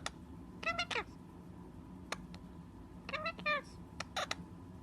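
Short meowing calls, each rising then falling in pitch, in two quick groups of three or four, with several sharp clicks between them.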